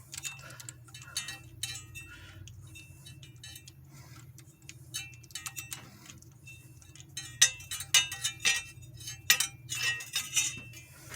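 Ratchet and spark plug socket clicking and clinking against metal while being worked onto a spark plug deep in the engine bay, in irregular strokes that come thick and sharp in the second half. A steady low hum runs underneath.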